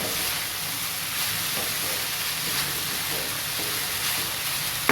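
Vegetable fried rice sizzling steadily in a hot pan, with a sharp knock at the very end.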